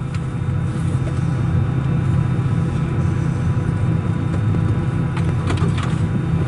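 Steady low hum of a parked Airbus A319's cabin air-conditioning and ventilation, with faint steady whine tones above it and a few light clicks about five to six seconds in.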